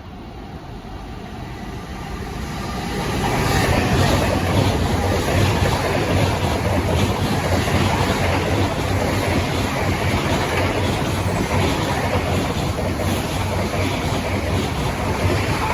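Eurostar Class 374 high-speed electric train, two units coupled, passing through at low speed. Its rumble and wheel noise build over the first few seconds, then run steadily with a low hum and faint repeated wheel clicks.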